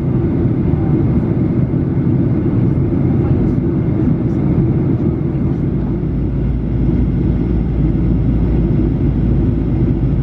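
Steady low roar inside the cabin of a Boeing 737-800 in flight: the CFM56-7B engines and rushing air, heard from a window seat.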